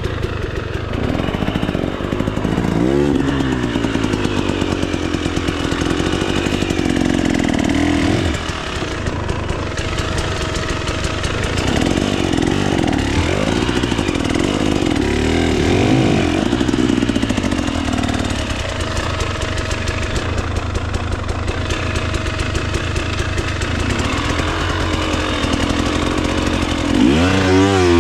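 2024 KTM 300 XC-W two-stroke dirt bike engine under way, its pitch rising and falling with the throttle through the whole stretch, with a sharp rev near the end.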